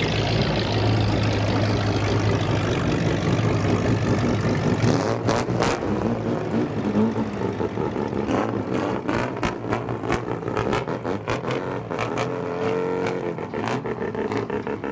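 Engines of modified older cars (kaido racers) running. From about five seconds in, sharp repeated blasts from revving come faster and faster, several a second near the end.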